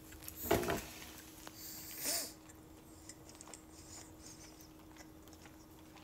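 Faint chewing and mouth sounds of a person eating fried chicken, over a steady low hum. A short, louder sound comes about half a second in and a brief hiss around two seconds in.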